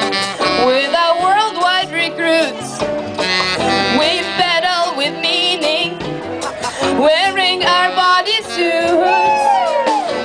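A country-style song performed live: singing over plucked-string accompaniment.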